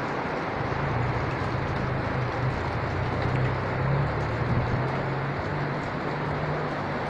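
Heavy rain falling, a steady dense hiss, with a low steady hum underneath.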